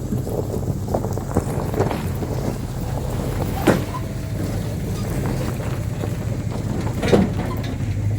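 Engine running steadily with a low rumble, wind buffeting the microphone, and a few sharp knocks, the loudest about a third of the way in and again near the end.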